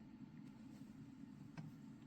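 Near silence: faint steady low room tone, with one faint click about one and a half seconds in.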